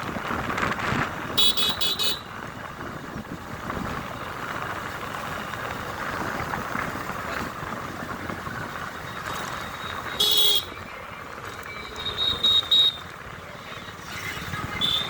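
Vehicle horns tooting in short, high-pitched bursts: a quick series of beeps about a second and a half in, a single toot around ten seconds, a cluster of short toots a couple of seconds later, and another near the end. Steady road and crowd noise runs underneath.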